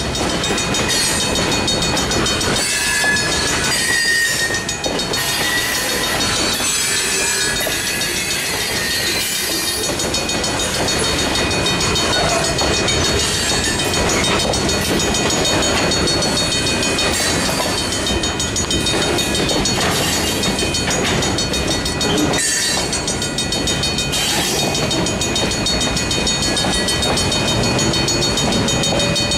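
Freight train of tank cars and covered hoppers rolling past at close range, steel wheels clattering over the rail joints. There are short squealing tones a few seconds in. The last car clears near the end.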